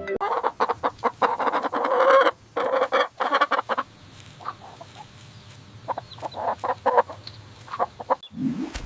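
Chickens clucking: a dense run of clucks for the first few seconds, then scattered clucks.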